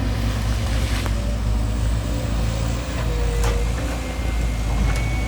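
Excavator's diesel engine running steadily, with a few sharp clicks and knocks and a faint whine coming and going.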